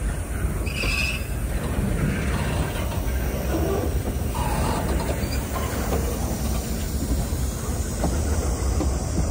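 Freight train on the move: a steady low diesel locomotive rumble with the noise of rolling cars, and a few brief faint wheel squeals.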